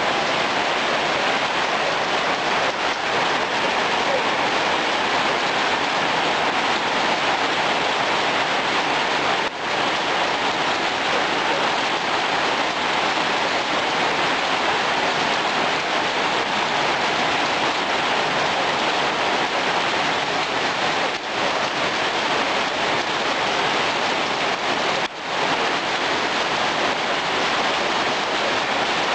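Heavy rain pouring down in a steady, dense hiss, with a few momentary dips in level.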